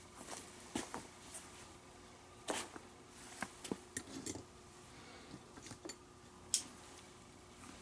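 Scattered light clicks and taps from hands working a leather baseball glove at the bench, a dozen or so small knocks spread irregularly, over a faint steady hum.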